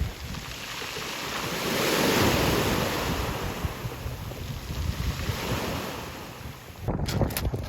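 Sea waves surging and washing back, loudest about two seconds in, with wind buffeting the microphone. Near the end this gives way abruptly to a run of sharp clicks.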